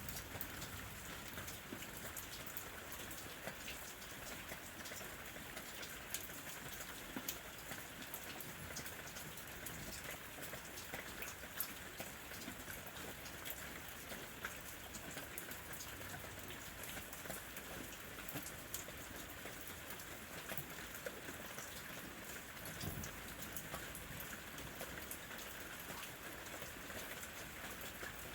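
Steady rain falling, an even hiss with many sharp individual drop taps scattered through it.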